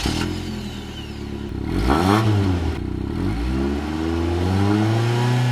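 Volkswagen Golf 3's 1.8-litre single-point-injection four-cylinder engine running and being blipped: the revs rise and fall about two seconds in, dip again, then climb and hold steady at a higher speed near the end.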